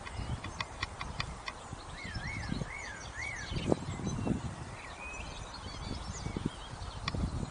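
Small garden birds singing and calling: quick high ticks, then a wavering whistle repeated three times, with more chirps later. Beneath them runs a constant low rumble with a louder bump near the middle.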